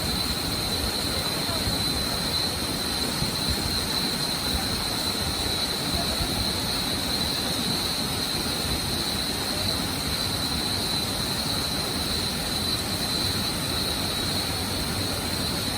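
Waterfall rushing, a steady unbroken roar of falling water, with a constant high-pitched whine running over it.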